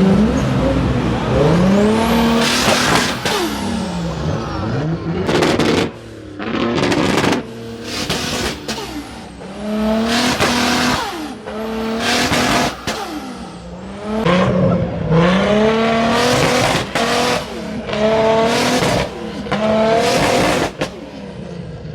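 Car engines revving hard again and again, each run climbing in pitch and breaking off as if shifting, with sudden sharp cracks in between.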